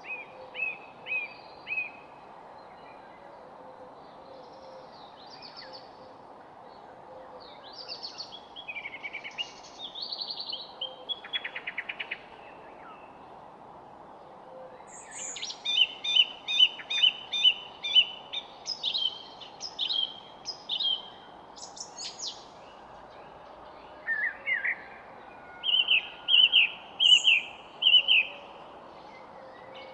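Several songbirds chirping and singing in short, repeated phrases and trills over a steady background hiss. The singing is sparse at first and becomes busier and louder about halfway through.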